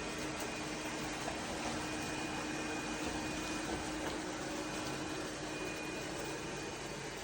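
Roborock Saros 10R robot vacuum running, a steady whirring hiss with a faint constant hum.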